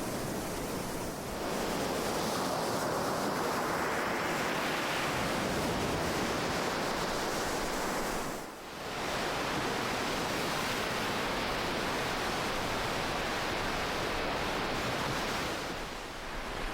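Ocean surf: a continuous wash of breaking waves, swelling after about a second, with a brief lull a little past halfway and another easing near the end.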